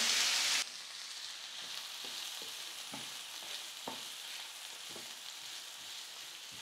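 Chopped onions, garlic and curry leaves sizzling in hot oil in a non-stick kadai, stirred with a wooden spatula that gives a few faint knocks against the pan. The sizzle is louder for about the first half second, then drops to a soft, steady sizzle.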